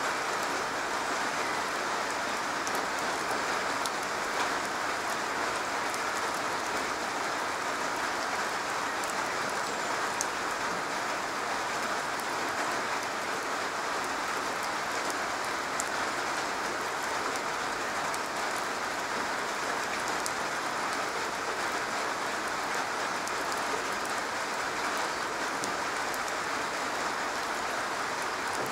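Steady rain falling on a garage roof: an even hiss with faint scattered drop ticks.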